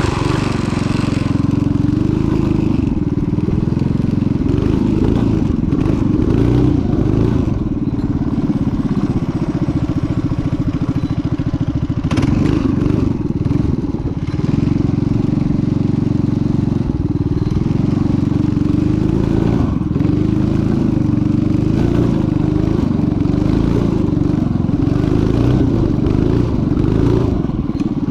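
Vintage minibike's small engine running as it is ridden, its pitch rising and falling again and again as the throttle is opened and eased.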